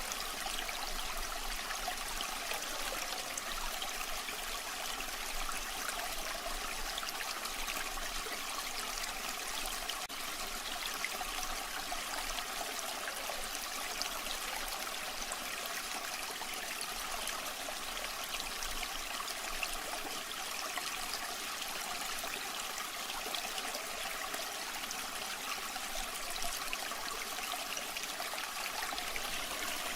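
Waterfall water rushing and splashing steadily, an even continuous hiss with little deep rumble.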